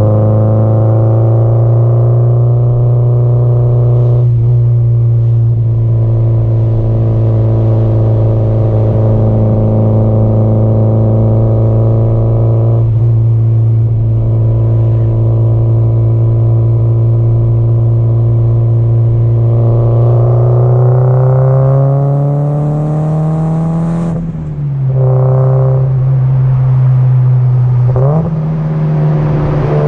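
Subaru Impreza GDB-E's 2.0-litre turbocharged flat-four engine and exhaust, running at a steady cruise, then rising in pitch as the car accelerates about two-thirds in. The note drops sharply at a gear change and jumps back up near the end.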